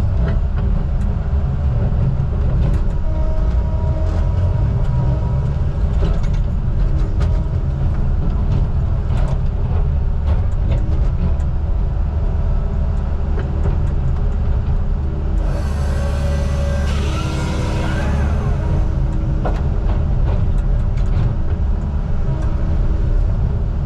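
Heavy diesel logging machine engine running steadily with scattered small rattles. About fifteen seconds in, a hiss lasting about two and a half seconds comes in over the engine.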